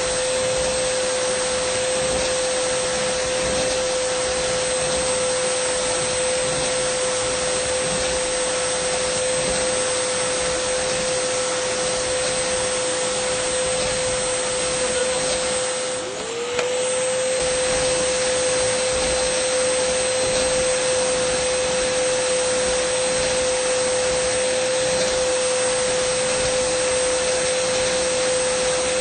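Dyson vacuum cleaner running steadily: an even rush of air over a constant motor whine. About halfway through the sound briefly dips, and the whine slides back up in pitch as it recovers.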